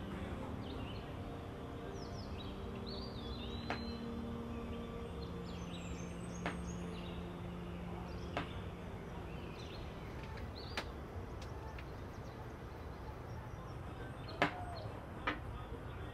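Steady background hiss with small birds chirping now and then, and a few light, sharp clicks, the loudest near the end.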